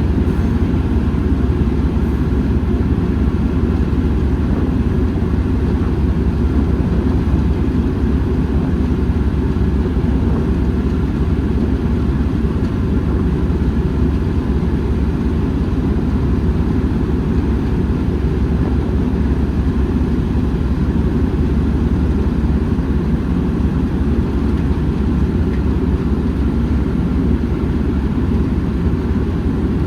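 Class 09 diesel shunter's engine running steadily, an even low rumble that holds at one level throughout.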